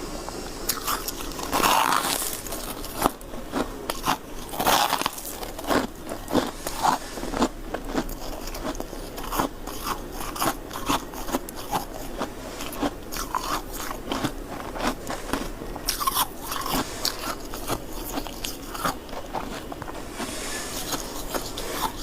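Close-up crunching of ice being bitten and chewed: a dense, irregular run of sharp cracks and crunches, with a few louder bites.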